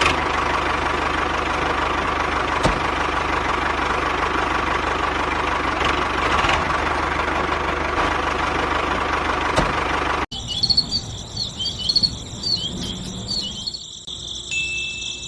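A small motor of a DIY model tractor or threshing machine running steadily. It cuts off abruptly about ten seconds in, and quieter high chirps follow.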